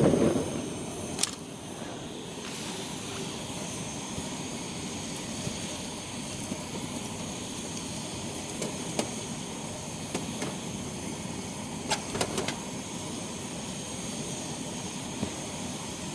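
Wood campfire burning with a steady hiss and a few sharp crackling pops, a cluster of them about two-thirds of the way in. There is a brief louder rush right at the start.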